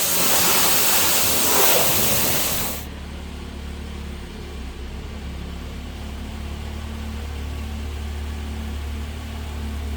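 A high-pressure jet hisses loudly, then cuts off suddenly about three seconds in. After that a car engine idles with a steady low hum.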